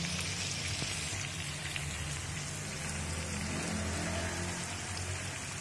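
Mutton and onions sizzling in oil in a wok, a steady crackling hiss, with a low steady hum underneath.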